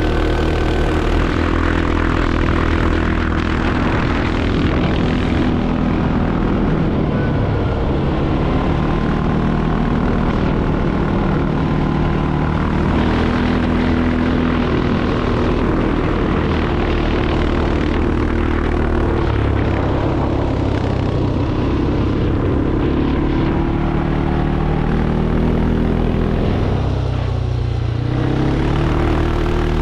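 A motor vehicle's engine running steadily, with a pitch that drops and then climbs back near the end.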